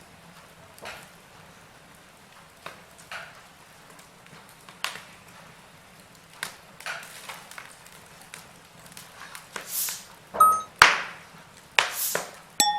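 Wood fire crackling with irregular sharp pops, which grow louder and come more often in the second half. Two short ringing chime tones, the second lower, sound about ten and a half and twelve and a half seconds in, typical of a timer's end signal.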